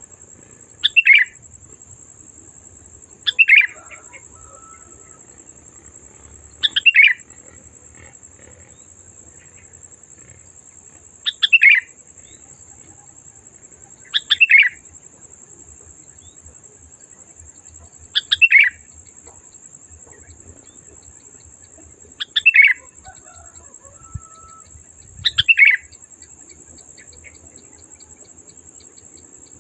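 Sooty-headed bulbul singing: eight short, loud phrases, each sweeping down in pitch, spaced a few seconds apart. A faint steady high-pitched hum runs underneath.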